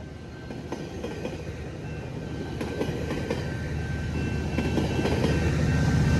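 GO commuter train's passenger cars rolling past with a rumble and clickety-clack of wheels on rail joints. The sound grows steadily louder as the MP40 diesel locomotive pushing at the rear draws near, and its low engine note builds toward the end.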